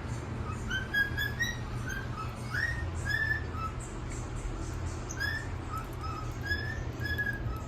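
A string of short whistled notes, a few a second, some sliding upward, over a steady low hum.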